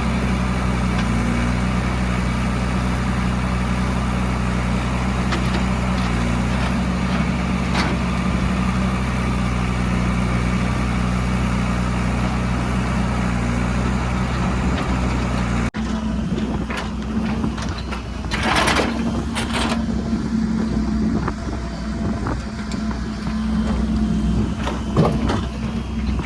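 Heavy diesel engine running steadily at a constant speed. About two-thirds in, the sound cuts abruptly and resumes rougher and more uneven, with a few short hissing bursts over the engine.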